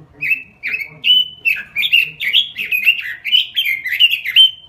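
Pekin robin (red-billed leiothrix) singing a fast, loud phrase of slurred whistled notes that sweep up and down, ending on a higher held note.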